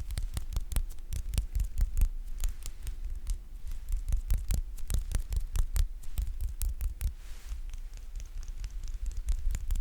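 Close-miked ASMR sticky tapping: fingertips tapping and pulling off a sticky surface right at the microphone, a fast irregular run of crisp clicks and snaps over low thumps.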